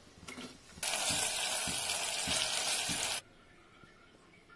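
Sliced onions sizzling as they drop into hot oil for deep-frying: a loud, even hiss that starts about a second in and cuts off abruptly about two and a half seconds later.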